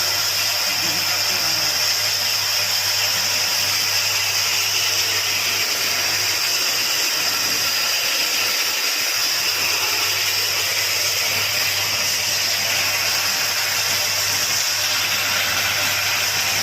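Woodworking machine running steadily: a constant high hiss over a low motor hum, with no change in load.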